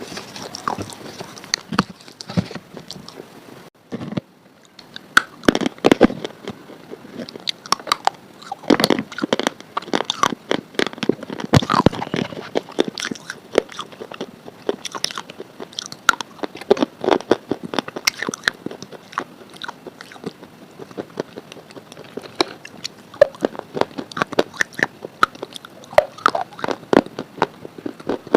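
Something crisp being bitten and chewed, a dense run of irregular crunches and crackles, with a brief pause about four seconds in.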